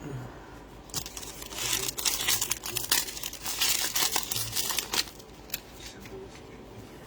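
Foil wrapper of a football trading-card pack being torn open and crinkled, with quick crackling rustles for a few seconds that then die down.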